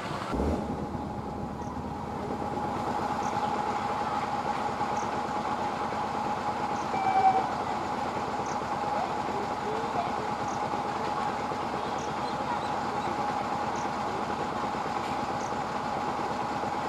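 Electric multiple unit (EMU) local train running at speed toward the listener: a steady rolling rumble over the rails with a continuous hum. There is a sudden knock about half a second in and a brief louder swell about seven seconds in.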